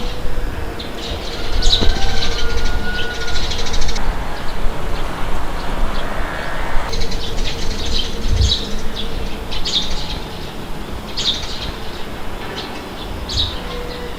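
Wind blowing with a steady low rumble, and small birds chirping again and again over it.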